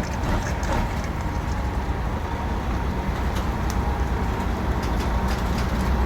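Caterpillar 3406 inline-six diesel of a dump truck running at low speed, heard from inside the cab as a steady low rumble, with scattered light rattles and clicks.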